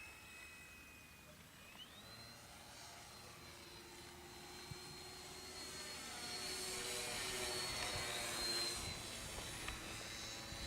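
Cessna 182 single-engine propeller plane flying past, its engine and propeller growing louder to a peak about eight seconds in, then easing off.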